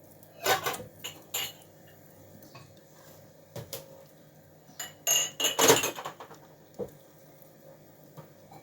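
Kitchenware clattering: scattered clinks and knocks of pots, dishes and utensils, with a louder run of clatter a little past halfway.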